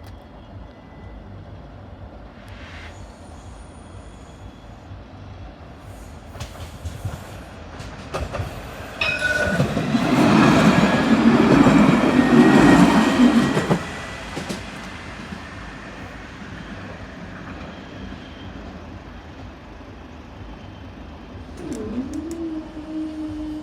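A train passes over a level crossing, with wheels clattering on the rails. It builds from about eight seconds in, is loudest for about four seconds in the middle, then fades. Near the end a steady low tone starts.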